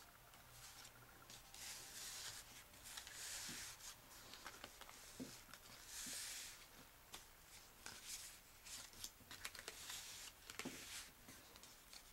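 Faint rustling swishes and small clicks and taps of cardstock being handled: a paper explosion box and its folded paper panels.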